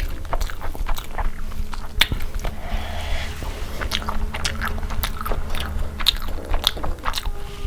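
Close-up chewing and biting into food, with many short, sharp, wet mouth clicks and smacks.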